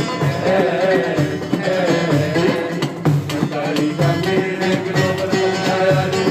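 Live traditional Middle Eastern or North African folk music: a wavering, ornamented melodic line over steady hand percussion.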